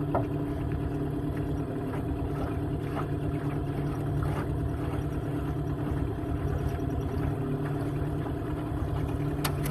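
A boat's outboard motor running steadily at low speed, an even drone with no change in pitch.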